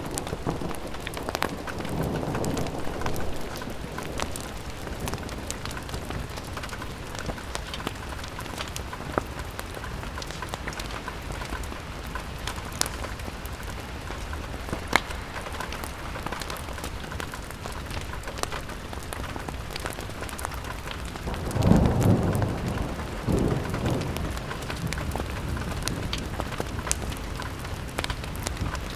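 Steady rain falling on a window, with scattered sharp drop ticks. Low rumbles swell up twice in quick succession about three-quarters of the way through, and are the loudest part.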